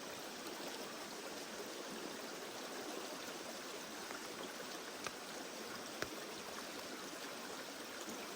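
Steady rush of running water with no break, with two faint clicks about five and six seconds in.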